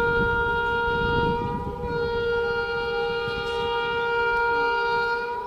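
Train horn sounding one long, steady blast with a brief wobble in pitch about two seconds in, over the low rumble of the train; it cuts off at the end.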